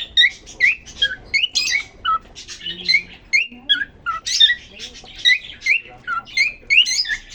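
Male cockatiel singing: a quick, continuous run of short rising whistled chirps, two to three a second, mixed with harsher raspy notes.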